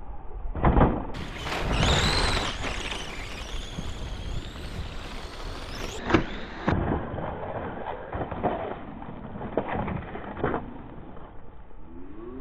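Electric motors of Schumacher Bosscat RC buggies whining, one rising then falling in pitch as it speeds up and backs off, followed by scattered knocks and clatter of the cars on the dirt track.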